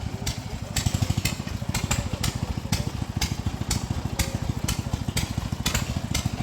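Gasoline engine running steadily with fast, even firing, and sharp clicks about twice a second.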